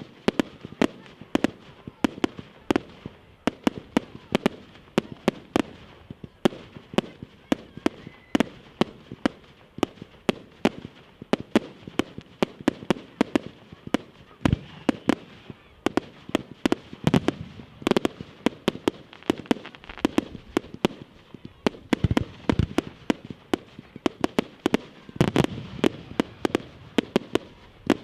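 Fireworks display: an unbroken run of sharp bangs and cracks, several a second, with deeper booms mixed in.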